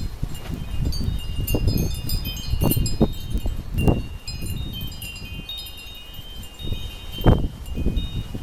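Metal wind chimes ringing continuously as they are tossed by storm winds, many overlapping high tones. Gusts of wind rumble against the microphone in irregular surges, strongest about three, four and seven seconds in.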